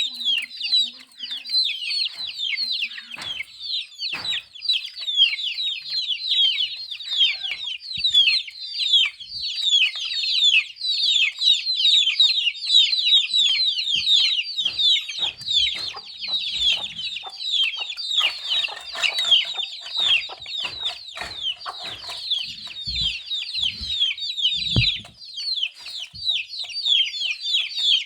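A brood of young chicks peeping continuously, many short, high, downward-sliding peeps overlapping without a break. A few soft low knocks come near the end.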